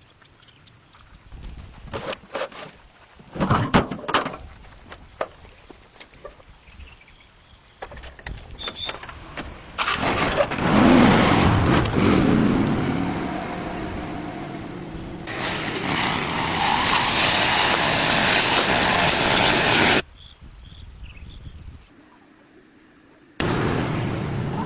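A vehicle engine running, loud and steady with a dense noisy hiss, after a few scattered knocks and clicks; it cuts off abruptly about twenty seconds in and starts again near the end.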